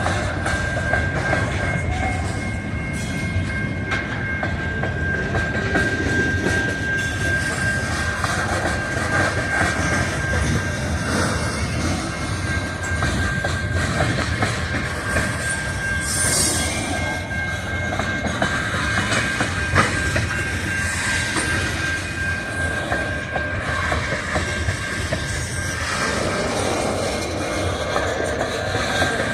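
Railroad cars rolling past steadily, wheels clicking over the rail joints, with a steady high-pitched wheel squeal that drops out briefly about halfway through.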